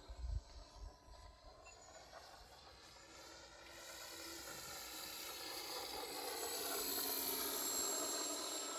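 Radio-controlled P-51 Mustang model airplane flying, its motor a pitched whine with many overtones that grows steadily louder from about four seconds in as the plane approaches. Wind buffets the microphone at the start.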